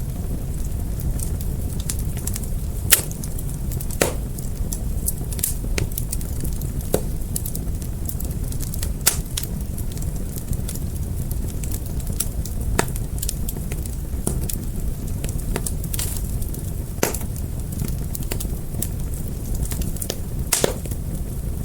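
Wood fire burning: a steady low rumble of flames with scattered sharp crackles and pops, a few of them louder, every few seconds.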